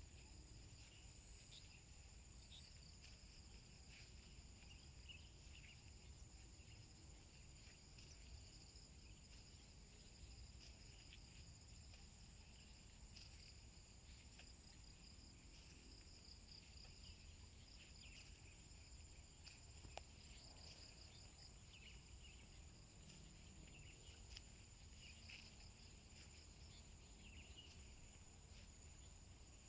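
Crickets and other insects chirping faintly: a steady high-pitched drone with short irregular chirps over it, above a low rumble.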